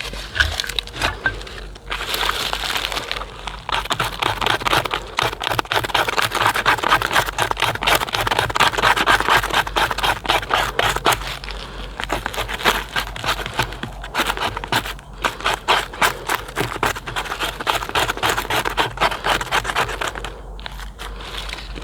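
Dense, close crackling and scraping with a few short lulls, from a campfire being started with birch bark and split hardwood kindling.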